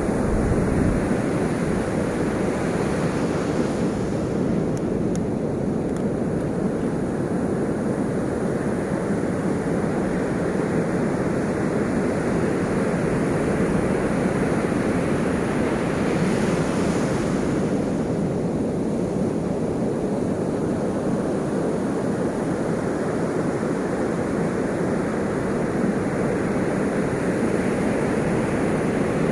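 Ocean waves breaking and washing on the shore in a steady, continuous surf, with a louder wave about two seconds in and another about sixteen seconds in.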